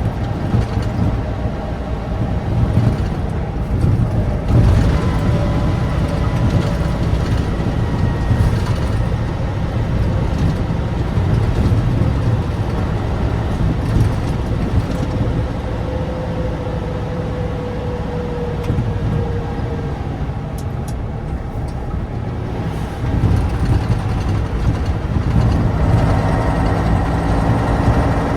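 1988 Tatra 815's naturally aspirated, air-cooled V10 diesel engine running as the unloaded dump truck drives, a steady engine note that grows louder toward the end.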